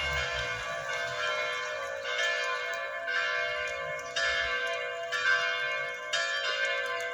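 Church bells ringing, fresh strikes coming about once a second over the sustained, overlapping tones of the earlier ones.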